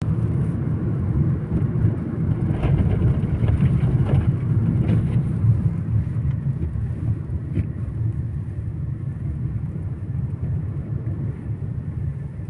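A car on the move: a steady low rumble of road and engine noise, with a few faint clicks.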